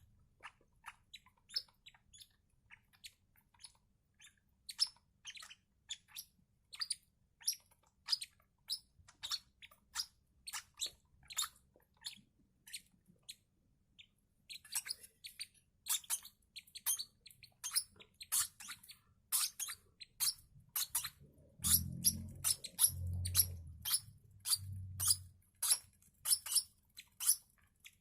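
Six-day-old lovebird chicks peeping: short, high cheeps over and over, about two a second at first, then faster and louder from about halfway. A few low thumps come a little after three quarters of the way in.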